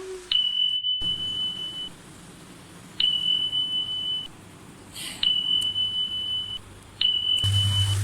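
An electronic beeper sounds four long beeps on one steady high tone. Each beep lasts about a second or more and starts with a click, with pauses of about a second between them.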